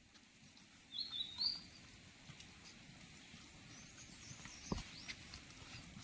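Faint bird chirps: a quick run of high chirps about a second in, and a fainter call in the middle, over a quiet outdoor hiss, with a single soft knock near the end.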